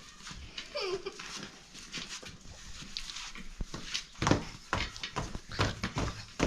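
A short animal call about a second in, bending in pitch, amid scattered knocks and rustling, with a louder knock a little after four seconds.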